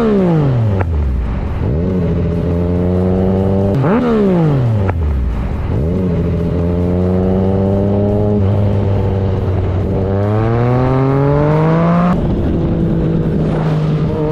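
Motorcycle engine running while riding. Its note falls steeply twice in the first five seconds and then holds steady. It climbs slowly from about ten seconds in and drops abruptly at about twelve seconds, as at a gear change.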